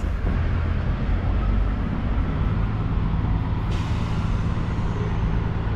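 Semi truck's diesel engine running steadily nearby, a low even hum.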